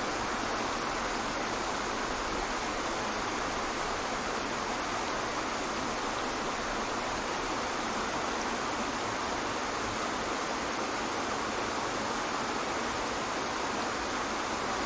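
Waterfall rushing steadily: an even hiss of falling water, more hiss than low rumble, with no change throughout.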